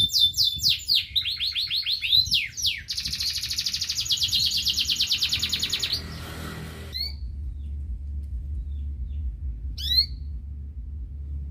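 Canary singing a fast, rolling trilled song for about six seconds, then breaking off. After that come only two short upward chirps, a few seconds apart, over a low rumble.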